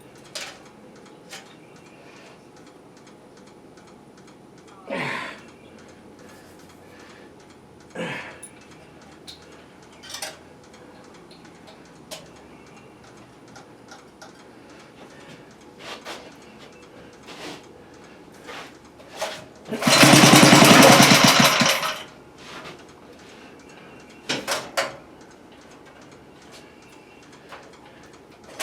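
Small single-cylinder engine of a 5 hp garden tiller firing up and running loudly for about two seconds, about two-thirds of the way in, then stopping; it has no muffler. Before it, scattered clicks and knocks of hand work on the machine.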